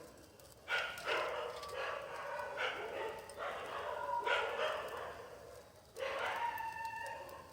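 A dog whining and yelping: about six high cries in a row, with a longer, steadier one near the end.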